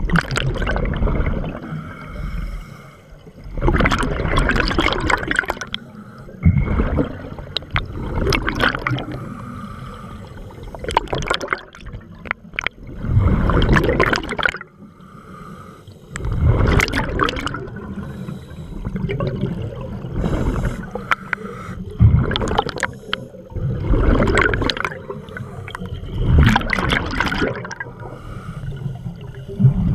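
Scuba diver breathing through a regulator underwater: breaths and gurgling exhaled bubbles come in bursts every few seconds.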